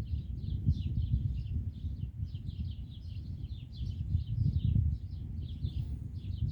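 Small birds chirping in a continuous run of short, high notes, several a second, over a loud low rumble.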